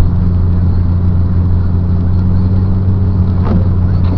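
Car driving on a snowy road, heard from inside the cabin: a steady low drone of engine and tyres.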